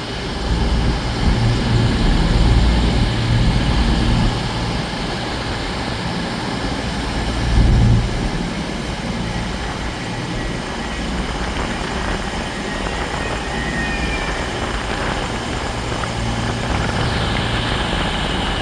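A pair of coupled Class 221 Voyager diesel-electric units pulling into the platform, their underfloor diesel engines running with a deep rumble. The rumble is strongest over the first few seconds and swells briefly about eight seconds in. A faint high squeal follows around the middle.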